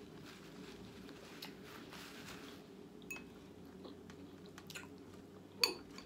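A person chewing a bite of steak with soft, wet mouth sounds, close to the microphone over a steady low hum. A sharp, short clink sounds about five and a half seconds in.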